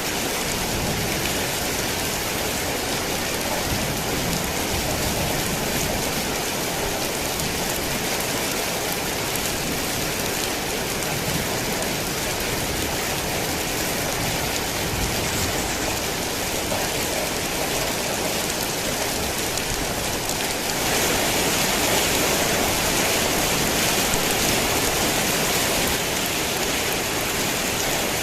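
Heavy rain falling steadily, a dense even hiss of drops, swelling a little louder for a few seconds about two-thirds of the way through.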